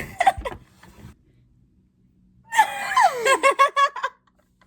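A young woman's voice making a made-up vocal sound effect: after a short pause, a high gliding cry that drops in pitch and runs into a quick string of short repeated notes.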